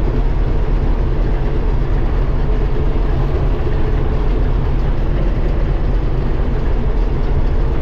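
Combine harvester running steadily: an even, loud engine drone with a steady hum over it.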